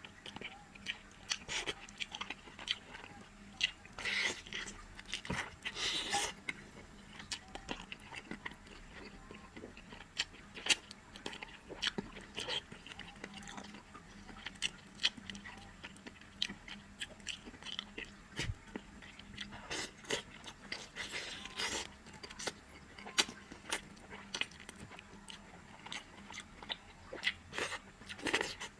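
Close-miked chewing and biting of spicy braised soft-shell turtle, with frequent irregular crunches and mouth clicks.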